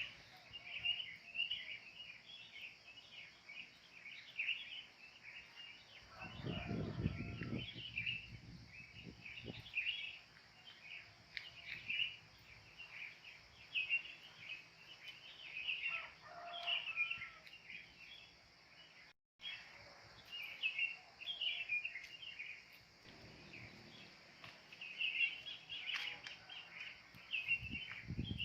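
Wild birds chirping in a dense, continuous chorus of short high calls, with a brief low rumble about six seconds in.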